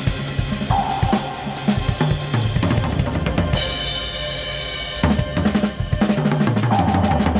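Acoustic drum kit played live from close up, with dense bass drum, snare and cymbal strikes. About halfway through the strikes thin out under a sustained ringing tone, and low pitches slide downward twice.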